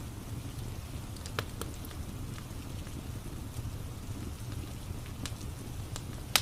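Rain and a crackling wood fire: a steady low rush with scattered sharp crackles, the loudest one right at the end.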